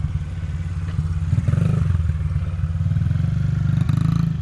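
Motorcycle engine running at low speed in a circle drill, with the throttle opened a little more about a second in.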